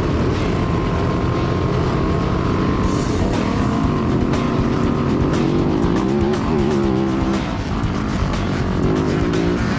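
Motocross dirt bike engines revving up and down repeatedly, with background music.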